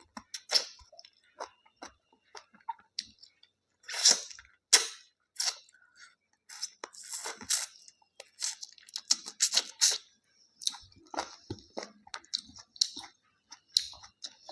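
A person chewing a meal of rice, chicken and salad, with irregular crunches and clicks from the bites.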